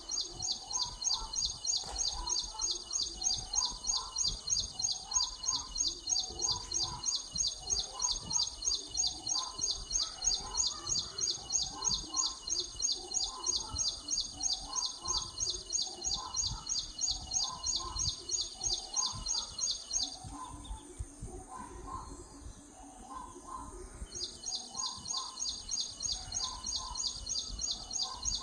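Birds calling: repeated short chirps about once a second, with a rapid, steady high-pitched trill that stops about 20 seconds in and starts again about four seconds later.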